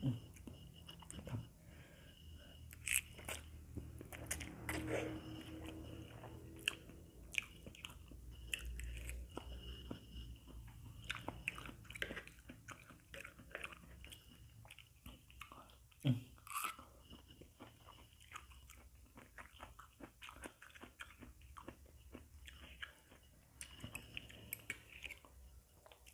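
A person chewing fried instant noodles with the mouth close to the microphone: wet mouth clicks and smacks come irregularly throughout, a little crunchy in places.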